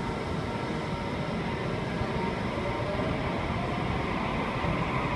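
Sydney Trains Waratah (A set) double-deck electric train pulling out of the station, its running noise steady and slowly getting louder as it gathers speed.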